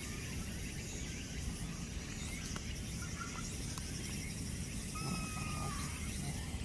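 Steady outdoor background noise, with one short, high animal call held at a level pitch about five seconds in.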